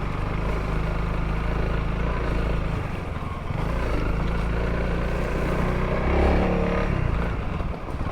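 Honda CRF300L's single-cylinder engine running as the motorcycle is ridden. The engine note eases about three seconds in, then rises as it picks up revs around six seconds in.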